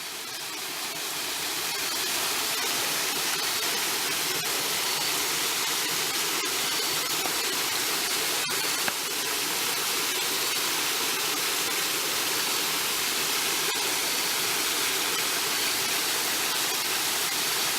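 Small waterfall pouring and splashing, a steady rushing hiss, with faint crickets chirping at intervals.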